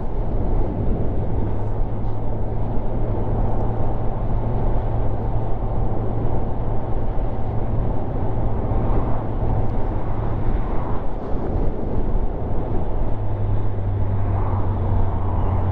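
Motorcycle engine running steadily on the move, mixed with rushing wind noise.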